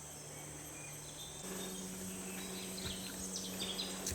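Tropical rainforest ambience: a steady high insect buzz with scattered short bird chirps. Underneath is a faint low steady hum that steps up in pitch about a second and a half in.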